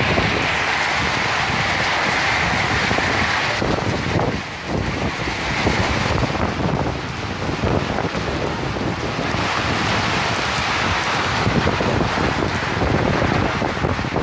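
Heavy rain pouring steadily on trees and wet pavement, with gusty wind rumbling on the microphone.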